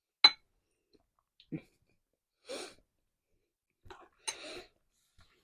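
Close-miked eating sounds of a person eating a hard-shell taco: a sharp mouth click just after the start, a soft thump, then two short crunches about two seconds apart.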